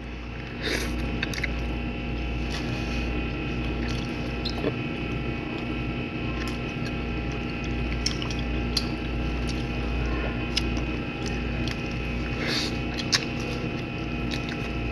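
Close-up chewing of grilled barbecue chicken, with scattered small mouth clicks. A steady electrical hum with a low drone runs under it.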